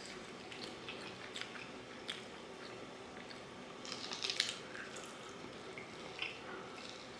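Close-up eating of fried chicken: scattered small crunches and mouth sounds from chewing and biting, with a denser run of them about four seconds in.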